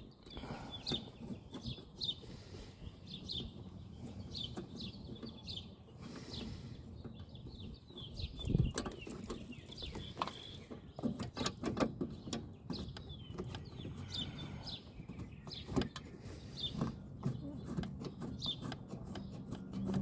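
Small birds chirping over and over, with scattered sharp metal clicks and knocks from hand tools, most of them in the middle of the stretch.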